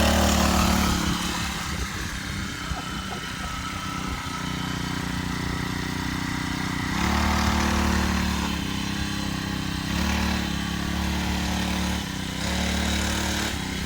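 Mini bike's small engine running under a rider, the throttle opened and eased off several times so the engine note rises and falls, loudest about seven seconds in and again near the end.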